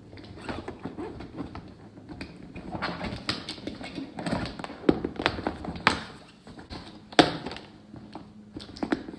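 A run of irregular taps and knocks, as of objects being handled and set down, with the sharpest knocks about five, six and seven seconds in.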